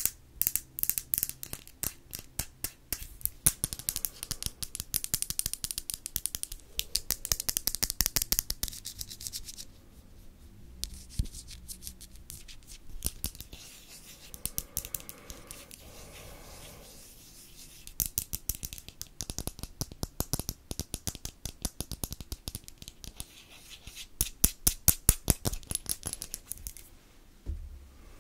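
Rapid, crisp ASMR clicks and taps close to the microphone, in dense runs. A quieter stretch of softer rubbing sounds falls in the middle.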